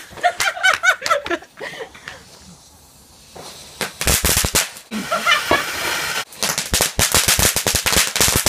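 Fireworks crackling in rapid strings of sharp pops: a burst about four seconds in, then a longer run from about six seconds on. Voices come before them.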